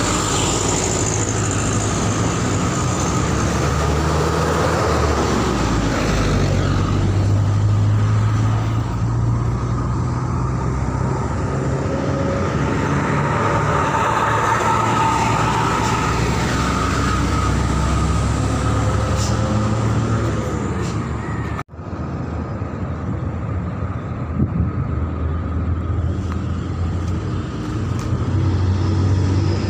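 Heavy road vehicles' engines running, with a steady low engine hum and traffic noise. The sound breaks off abruptly about two-thirds through and picks up again at a similar level.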